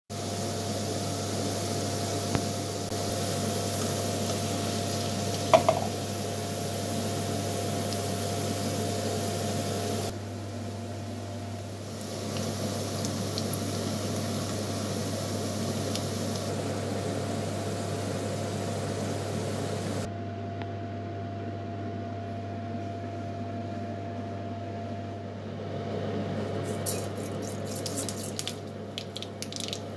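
Cubed potatoes, then sliced onions, frying in hot oil in a wok: a steady sizzle over a steady low hum. Near the end the hot oil gives sharp crackles and pops.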